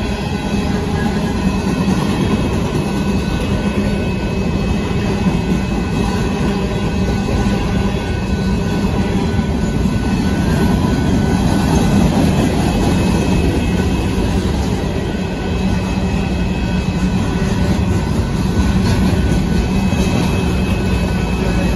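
Covered hopper cars of a Union Pacific grain train rolling steadily past: a continuous loud rumble of steel wheels on the rails, with faint steady high tones above it.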